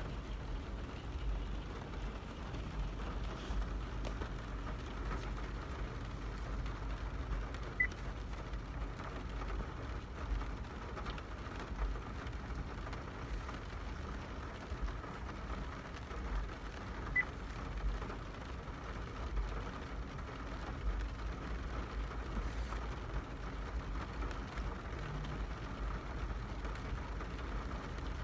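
Car running, a steady low rumble with an even hiss over it and a few faint clicks.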